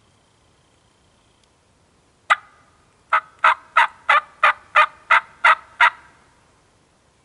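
A turkey yelping: one sharp note, then a run of nine evenly spaced yelps, about three a second.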